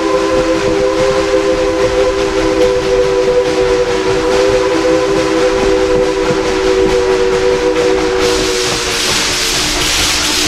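Steam locomotive's chime whistle sounding one long chord of several notes. It fades out about eight seconds in as a loud hiss of steam takes over.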